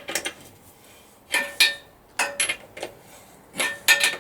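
Metal spanner clinking and knocking against the motorcycle's bolts as they are tightened, a series of sharp metallic clinks, mostly in pairs, each ringing briefly.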